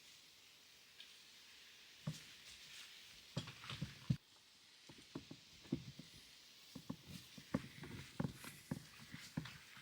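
Faint footsteps with light knocks. The steps are irregular and start about two seconds in.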